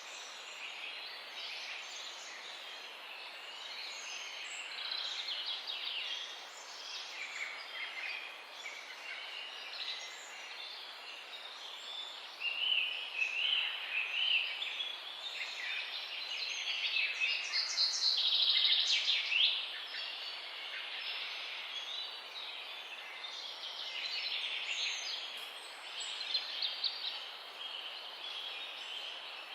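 Several songbirds singing and chirping together over a steady background hiss, their calls overlapping throughout. A loud run of rapid repeated notes stands out a little past the middle.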